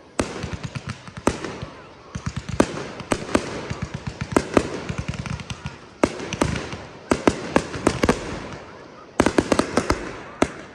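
Fireworks display: aerial shells bursting with sharp bangs one after another, several followed by a fast crackle of small pops, and a quick cluster of bangs near the end.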